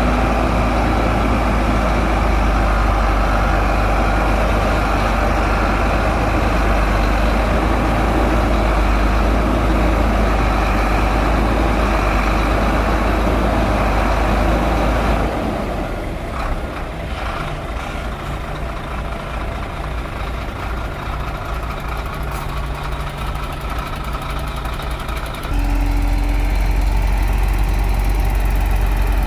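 Shantui bulldozer's diesel engine running loud and hard. About halfway through it drops to a quieter, steady hum for roughly ten seconds, then comes back to full noise near the end.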